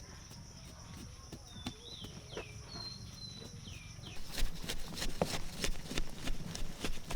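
A few short falling chirps, then a run of irregular knocks and taps from about four seconds in, the knocks being the loudest part.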